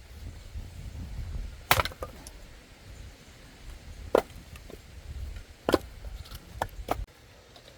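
Axe splitting firewood logs: three sharp chops about two seconds apart, then two lighter knocks. The logs are still green, which the owner complains of.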